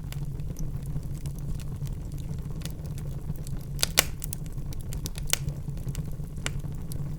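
Wood fire crackling in a fireplace: a steady low rumble of the flames under many small pops. The loudest sharp pop comes about four seconds in, with another just after five seconds.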